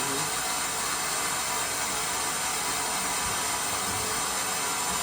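Steady hiss of water running through the open manual fill valve into a steam boiler as the level rises in the gauge glass.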